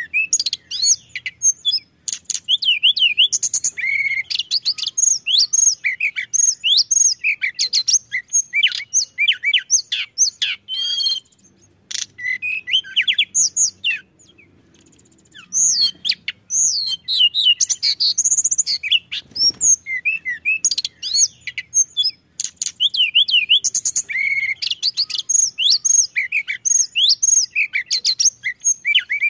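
Tledekan gunung songbird singing a fast, high, varied song of chirps, whistled slurs and short trills. The song breaks off for a few seconds in the middle, then resumes.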